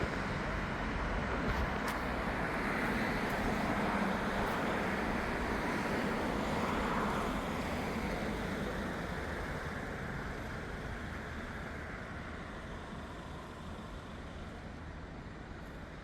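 Engine rumble and road noise of a passing vehicle, loudest in the first half and slowly fading away.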